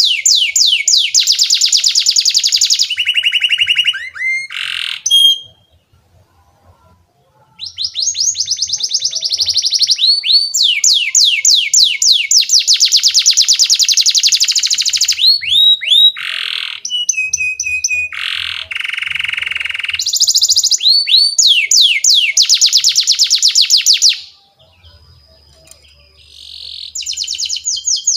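Domestic canary singing in long, fast trills and rolls: rapid runs of repeated sweeping notes alternate with lower buzzy rolls. The song breaks off briefly twice.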